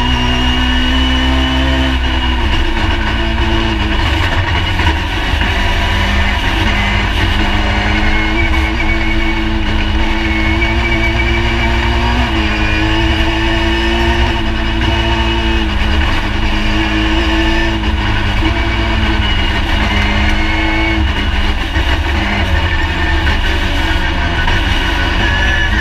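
Ford Escort MK II rally car engine heard from inside the cockpit, running loud and hard along a stage. Its pitch holds level and then steps down and back up several times as the gears change.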